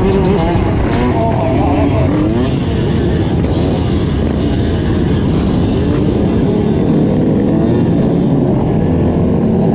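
Motorcycle engines running and revving, the pitch rising and falling repeatedly.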